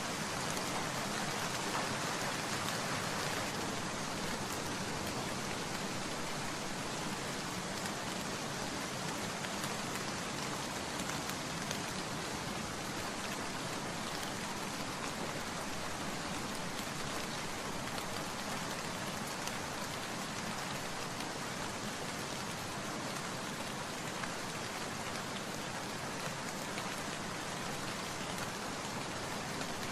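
Steady rain falling and pattering on surfaces, an even hiss with scattered drop ticks, slightly heavier in the first few seconds.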